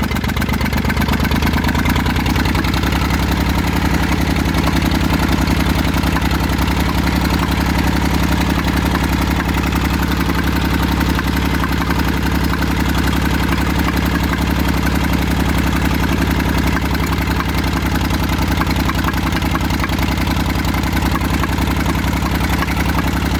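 Massey Ferguson 35's three-cylinder Perkins diesel running steadily, with a fast, even firing beat.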